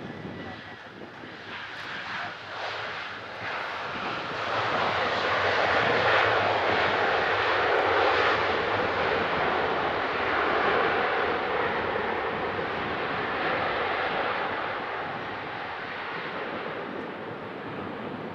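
Boeing 767-300 jet engines, a dense rushing roar that swells to its loudest a few seconds in and then slowly fades as the airliner passes on its landing.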